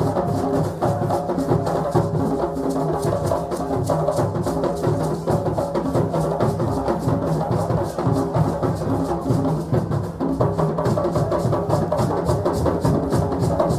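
Several hand drums playing a fast, dense, steady rhythm of many strokes a second, with other sound of a festive crowd blended into the music.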